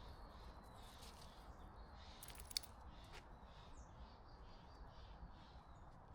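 Quiet forest ambience with a bird giving short high calls in a steady rhythm, about two a second. A single sharp click about two and a half seconds in.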